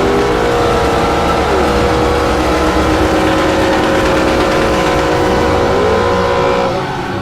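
Muscle car engine held at high revs under hard acceleration, its pitch mostly steady with a dip a second and a half in and a rise near the end.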